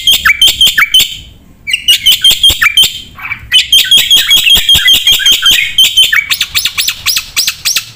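Black-winged myna (jalak putih) singing loudly in fast runs of short, sharp chirping notes, about six a second, with brief pauses about a second in and again around three seconds.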